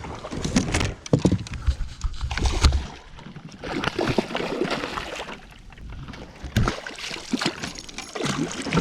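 Irregular splashing and sloshing of water, with knocks and rustles, as a hooked bowfin (mudfish) is fought and landed.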